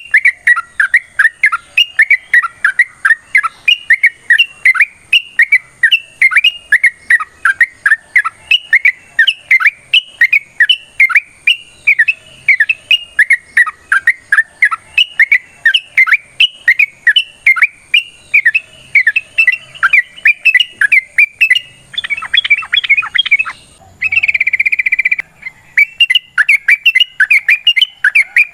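Yellow-vented bulbul (trucukan) singing a long, fast run of short chirps, about three to four a second. Near the end it breaks into a scratchier chatter and a brief harsh buzzy rasp, then the chirping starts again.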